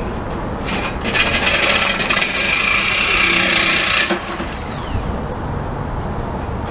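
Power saw cutting through the exhaust pipe for a muffler delete: a harsh rasping for about three and a half seconds that stops abruptly, then a faint falling whine as the tool winds down.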